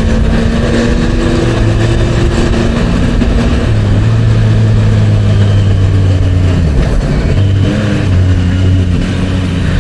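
Motorcycle engine and exhaust running under the rider at riding speed, its note stepping up and down a few times with the throttle, over steady wind and road noise.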